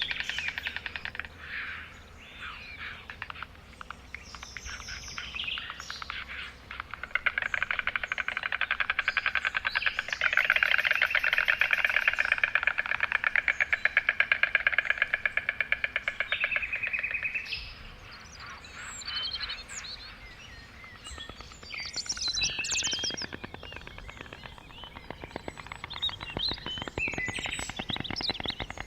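White stork clattering its beak: a rapid, rhythmic rattle of many clicks a second, loudest through the middle, with small birds chirping near the end.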